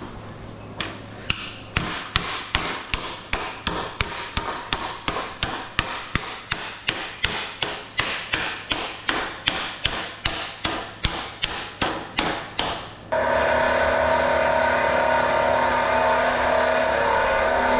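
Steady hammering, about three blows a second, some thirty in a row. Then, about thirteen seconds in, a power tool's motor starts suddenly and runs steadily.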